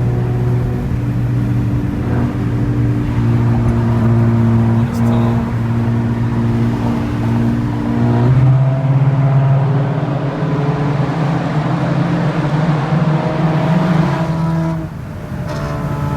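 Car engine running steadily at a constant speed with a droning hum. Its pitch steps up a little about eight seconds in and then holds.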